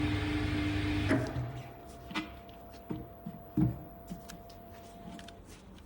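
A steady electric motor hum stops about a second in, followed by a few light knocks and clicks of tools or parts being handled.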